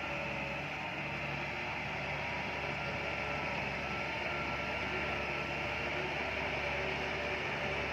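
Bulldozer's diesel engine running steadily at work, an even mechanical drone with no change in pitch or level.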